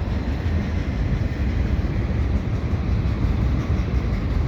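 Freight cars of a CN freight train rolling past, a steady low rumble of steel wheels on the rails.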